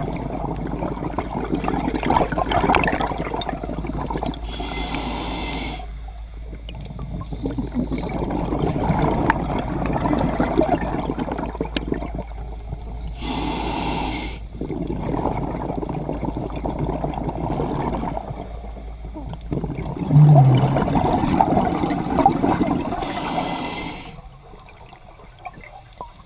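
Scuba diver breathing through a regulator underwater: three hissing inhales, about nine seconds apart, each followed by a long bubbling exhale.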